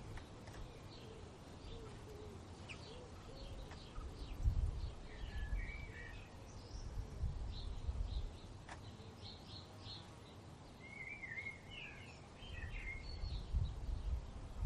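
Several songbirds chirping, with a warbling song phrase about five seconds in and another longer one near the end. A low rumble of wind swells and fades underneath in gusts.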